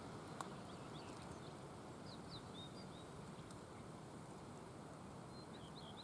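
Faint, scattered high chirps and short whistled notes from small birds over a steady outdoor background hiss, with a single sharp click about half a second in.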